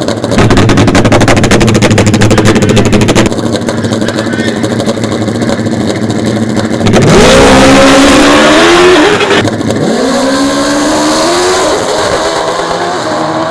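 Drag-racing motorcycles held at high revs, then launching and accelerating hard, the engine pitch climbing and dropping back several times as they shift up through the gears, before fading away.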